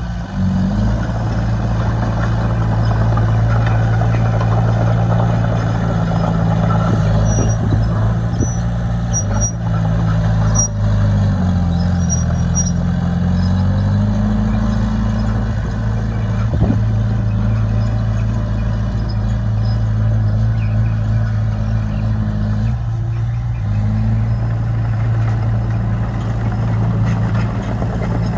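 Diesel engine of a crawler bulldozer running steadily at working speed. About twelve seconds in its pitch sags for a couple of seconds and then recovers.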